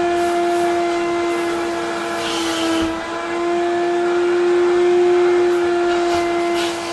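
Wet vacuum cleaner motor running with a steady high whine; its pitch dips briefly about three seconds in. Bursts of hissing come about two seconds in and again near the end.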